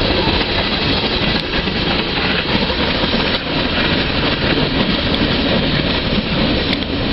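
Norfolk Southern train passing, its wheels on the rails making a loud, steady noise.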